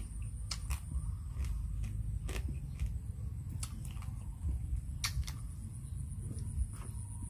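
Close mouth and hand sounds of eating Khmer raw crab salad by hand: irregular small clicks and cracks as crab shell pieces are picked at, sucked and chewed, with lip smacks. A faint steady high whine runs underneath.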